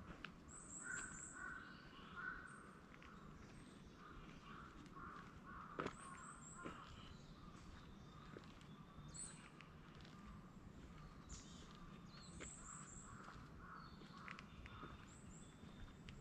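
Faint bird calls: runs of three or four quick, very high chirps every few seconds over lower, rougher calls, with one sharp click about six seconds in.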